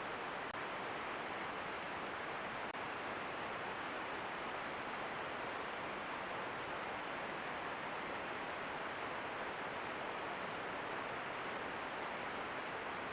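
Steady, even hiss with no distinct events, and a faint thin high-pitched whine above it.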